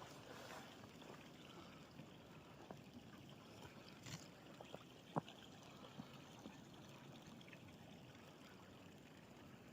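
Near silence: faint, steady outdoor hiss with a few scattered soft clicks, the clearest about four and five seconds in.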